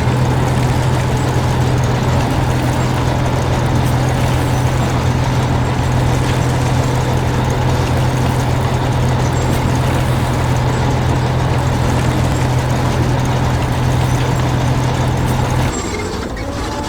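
Heavy construction-vehicle engine sound effect running loudly and steadily with a deep drone, starting suddenly and dropping away near the end.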